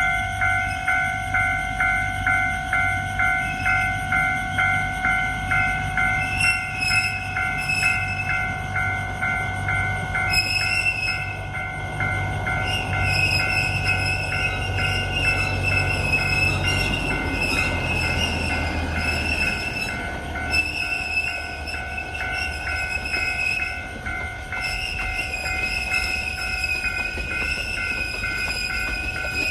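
Alishan Forest Railway train running, with a low diesel rumble and a warning bell dinging steadily about twice a second. From about six seconds in, high wavering wheel squeal sets in, and the rumble drops away a little past halfway.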